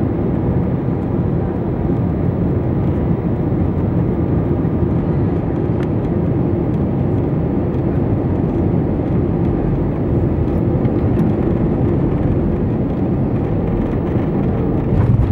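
Steady low rumble of an airliner's jet engines and rushing air, heard from inside the passenger cabin during landing; it swells briefly near the end.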